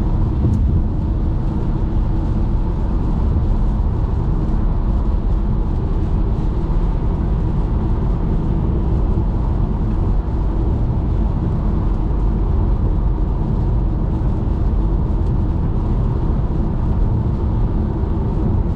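A car driving at motorway speed in the rain: steady road and tyre noise, mostly low in pitch, with no distinct events.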